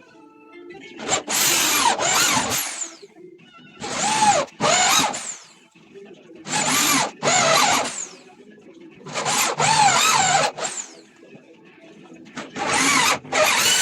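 Electric drill running in five short bursts, about every two and a half to three seconds, each with a brief stop partway through, its motor pitch rising and falling within each burst.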